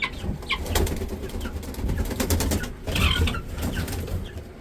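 Low rumbling, bumping and rustling, with clicks in the first second, under several short, falling high peeps from young poultry chicks.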